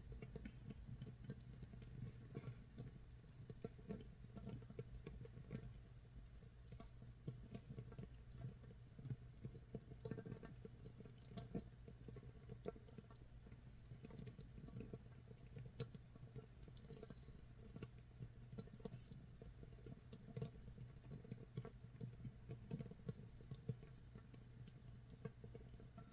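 Makgeolli starter mash (mitsul) fermenting in a crock, 24 hours in: a faint, constant, irregular crackle and fizz of tiny bubbles popping, like rain or rice crust crackling in a pan. A low steady hum runs underneath.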